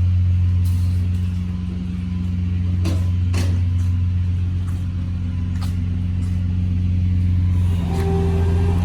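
Steady low drone of a vehicle driving, engine and road noise, with a few sharp clicks about three seconds in and a higher hum joining near the end.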